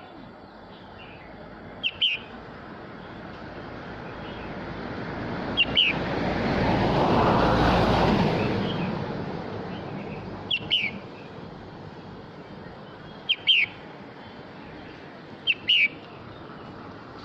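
Red-whiskered bulbul calling: short, bright two-note phrases repeated five times, a few seconds apart. A broad rushing noise swells and fades in the middle.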